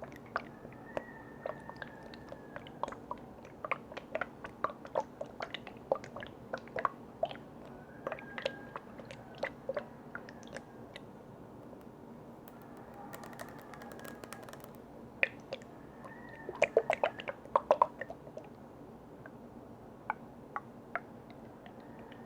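Close-miked light tapping and clicking on lids and containers, irregular small clicks throughout. A brief soft hiss comes about midway, and a quick flurry of louder clicks follows about three-quarters of the way through.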